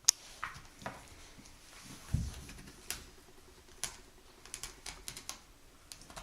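A puppy moving about on a hard kitchen floor: irregular sharp clicks and taps, a quick run of them near the end, and one dull thump about two seconds in.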